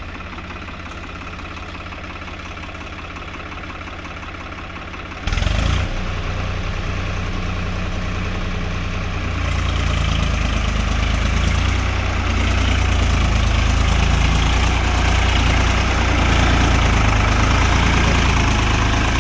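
Tractor engine running steadily at low speed. About five seconds in it suddenly gets louder, and a few seconds later it rises again and stays at the higher level, as when the throttle is opened.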